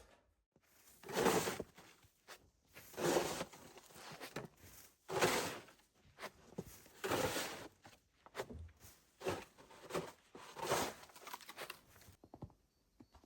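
Footsteps crunching slowly through deep snow, one heavy step about every two seconds, with smaller crunches between.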